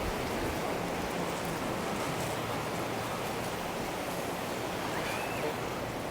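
Steady wash of sea surf on a beach, an even rushing noise without breaks.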